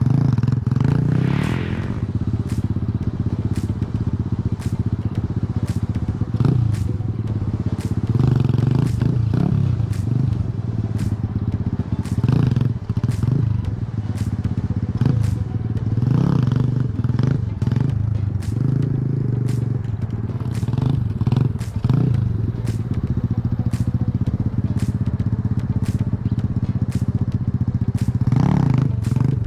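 Tao Tao DB17 125cc pit bike's single-cylinder engine running and being revved up and back down several times, with many brief clicks and rattles over it.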